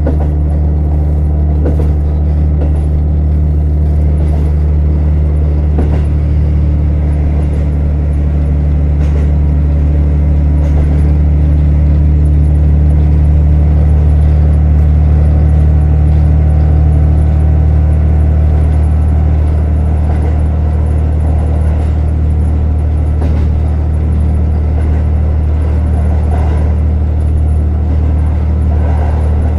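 JR Hokkaido KiHa 150 diesel railcar under way: a steady, loud low drone of its diesel engine and running gear, with scattered faint clicks. The loudness swells slightly around the middle.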